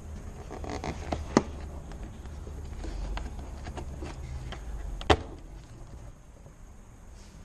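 Clicks and knocks of hands working on the car's plastic engine air filter housing. There are two sharp snaps, one about a second and a half in and one about five seconds in, among lighter taps, over a low steady rumble.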